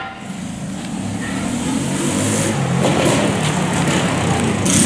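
Car engine running, growing louder over the first couple of seconds and then holding steady, with a brief sharp hiss near the end.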